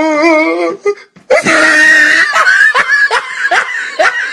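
A person laughing hard: a wavering high-pitched wail, a loud shriek, then a quick run of short laughs falling in pitch.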